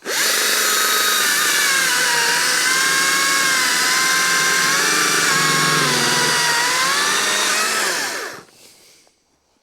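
Chainsaw running at full throttle on a test cut with a freshly PowerSharp-sharpened chain. Its pitch dips twice and recovers, and it winds down about eight seconds in.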